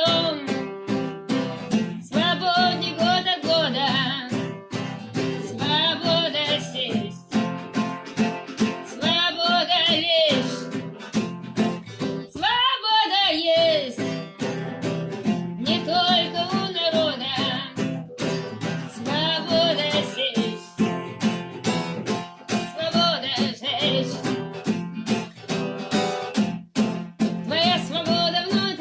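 A song sung to a strummed guitar: sung phrases with vibrato every few seconds over steady strumming.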